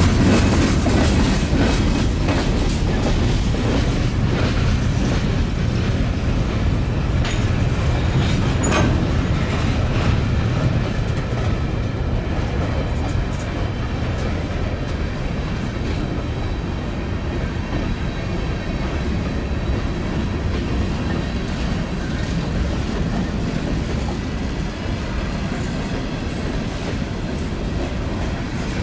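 A train rolling past on the rails, its wheels clicking rhythmically over rail joints in a steady, continuous rumble that eases slightly about ten seconds in.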